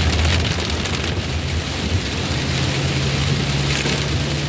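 Heavy rain pelting a moving vehicle's roof and windscreen, over a low engine and road hum; a steady low drone joins in about halfway through.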